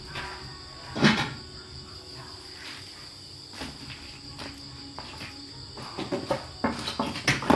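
A cricket or similar insect gives a steady high-pitched trill, with irregular knocks and clatter: one sharp knock about a second in and a cluster of knocks near the end.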